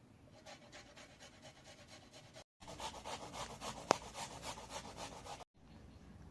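Rhythmic rasping strokes, about four a second, like a hand working something back and forth against wood or a rough surface. It plays in two stretches separated by abrupt cuts, the second louder, with a single sharp click in its middle.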